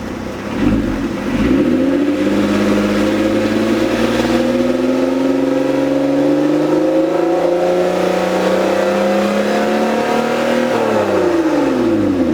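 Lotus Evora's Toyota 2GR-FE V6 running through a custom variable-valve exhaust. Its revs pick up about a second in and keep climbing slowly and steadily, as when pulling under load. Near the end the revs drop sharply.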